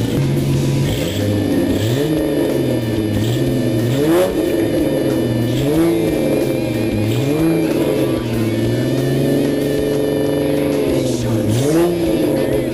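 2000 Mustang 3.8-litre V6 with a catless Pypes off-road pipe and Flowmaster 44 mufflers, revved up and let fall back again and again, about once every two seconds.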